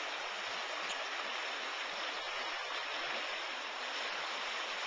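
Swollen, muddy creek running hard after heavy rain: a steady rushing of water.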